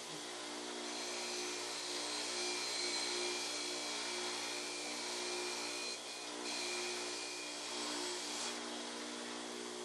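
Electric power tool running steadily, with a motor hum and a high hissing whine, typical of rust and paint being stripped. The sound shifts briefly a little after six seconds and again near eight and a half seconds.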